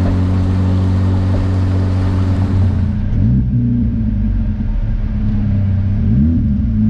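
Car engine heard from inside the cabin, droning steadily with road hiss while cruising. About three seconds in, the engine pitch rises and falls twice as the car accelerates.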